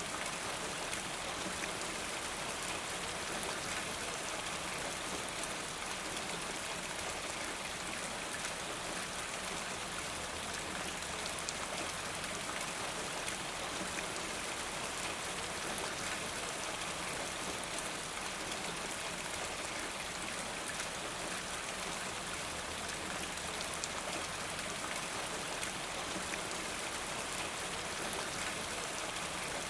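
Steady rain falling, with fine patter of drops on a surface.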